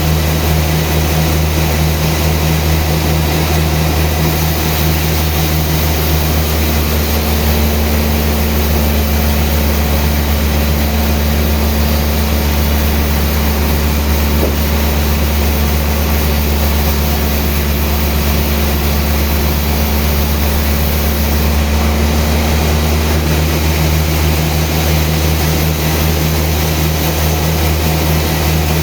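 Sawmill engine running steadily under load with a deep, even hum, a higher steady tone joining in for about fifteen seconds in the middle.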